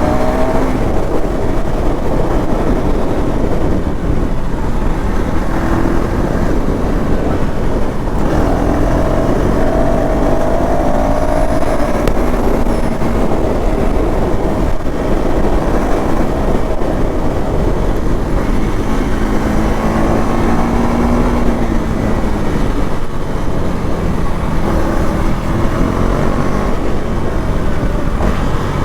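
KTM Duke 390 Gen 3's single-cylinder engine through its stock exhaust while the bike is ridden. The engine note rises in pitch again and again, with short breaks in between, over a steady low rumble.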